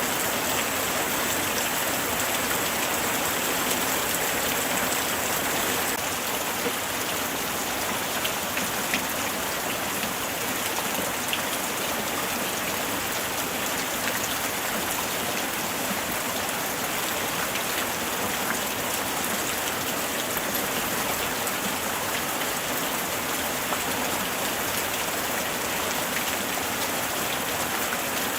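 Steady light rain falling, a dense hiss with scattered individual drops pattering.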